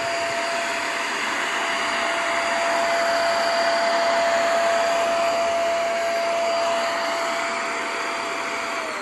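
Cordless stick vacuum cleaner running on a rug with a steady high whine over a rushing hiss. It is switched off right at the end, its pitch falling as the motor winds down.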